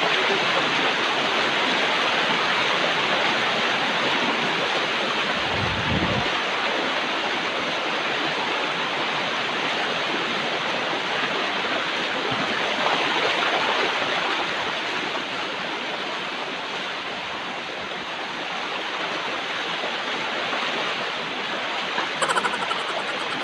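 Waterfall rushing, a steady full wash of falling and splashing water, with a short low thump about six seconds in and a few faint clicks near the end.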